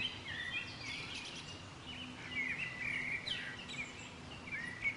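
Several birds chirping and calling: many short, overlapping rising and falling chirps over a faint steady hiss.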